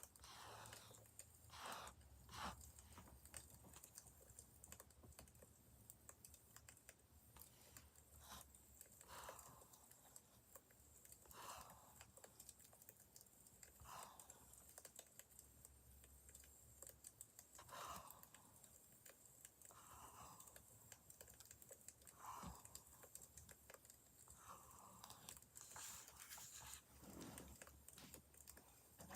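Faint crackling of burning firewood: scattered small snaps and soft pops every second or two over a low steady hum.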